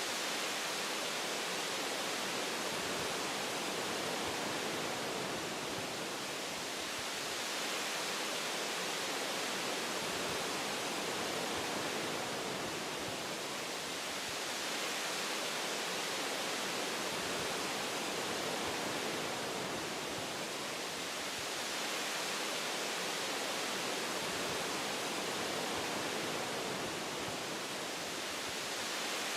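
Wind blowing through forest branches and leaves, a steady rushing hiss that swells and eases gently every several seconds.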